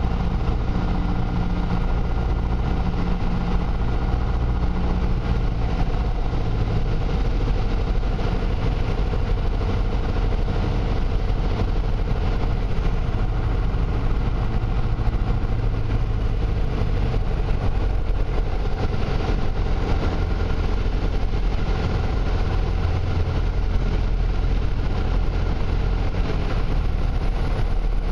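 Piper Cherokee's piston engine and propeller droning steadily, with the low engine note shifting in pitch a few times.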